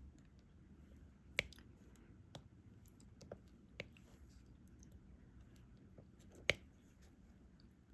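Light, scattered clicks and taps of a diamond-painting drill pen picking up small resin drills and pressing them onto the adhesive canvas, with two louder clicks about a second and a half in and near the end.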